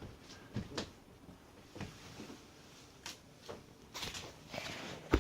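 Quiet scattered knocks and rustles of things being handled, with a sharp click right at the end.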